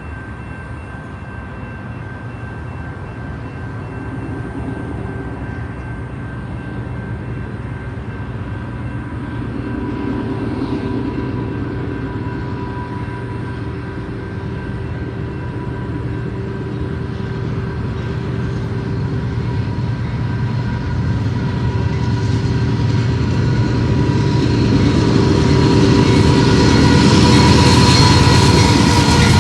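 Diesel-hauled train approaching, its engine hum and rail noise growing steadily louder over the whole stretch.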